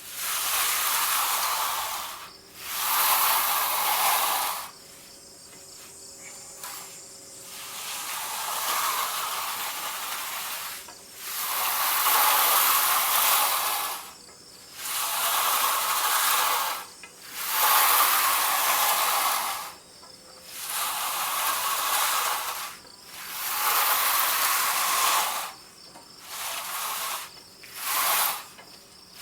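Repeated long swishing strokes of a finishing tool dragged across fresh concrete, about a dozen strokes, each a second or two long. One stroke a few seconds in is quieter and longer, and the last few near the end come shorter and quicker.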